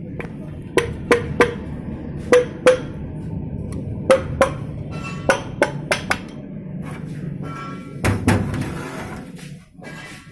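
Hammer blows on metal engine parts, struck in short groups of two to four with brief pauses between, some blows ringing briefly, over a steady low background hum.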